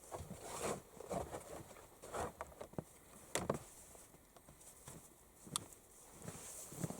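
Irregular rustling of clothing and gear with scattered light clicks and knocks as people move about, the sharpest knock about halfway through.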